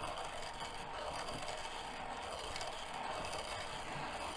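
Timemore Chestnut C3 hand grinder's stainless steel conical burrs grinding coffee beans as the crank is turned, a steady grinding with no pauses.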